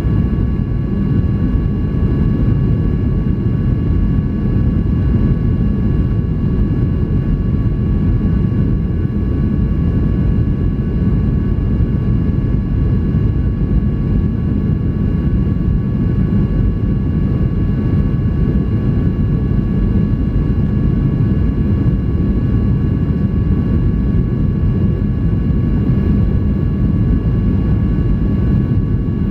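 Steady cabin noise inside a Boeing 737-800 airliner: a dense low rumble of airflow and its two CFM56 turbofan engines, with a few faint steady whining tones above it.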